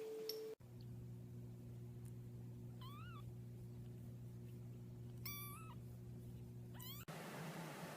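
A cat meowing three times: short high calls, the middle one the longest, over a steady low hum.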